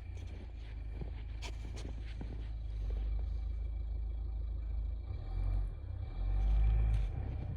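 A car driving, with a steady low rumble of engine and road and scattered light clicks and knocks. The rumble swells twice near the end.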